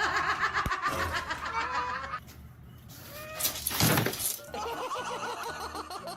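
A person laughing in quick high-pitched bursts, interrupted about three and a half seconds in by a short, loud burst of noise.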